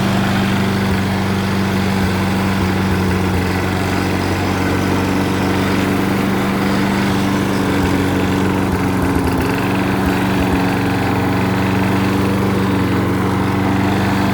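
John Deere JS25 walk-behind mower's engine running steadily at constant speed while its self-propelled drive is tried, with a slight change in tone about four seconds in.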